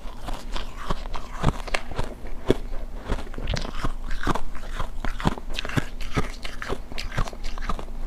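Refrozen block ice being bitten and chewed: an irregular run of sharp crunches, several a second.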